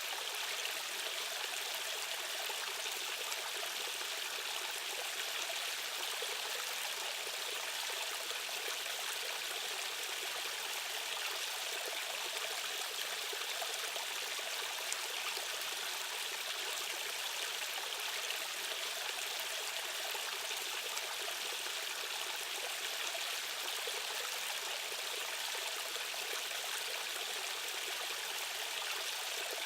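Rushing stream water running steadily, an even hiss with no breaks.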